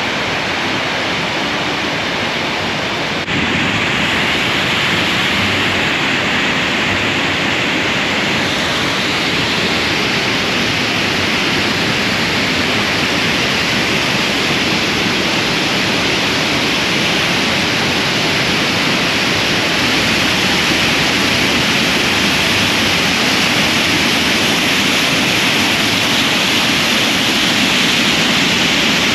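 Steady rush of a large waterfall: a continuous, loud wash of falling water that steps up a little about three seconds in.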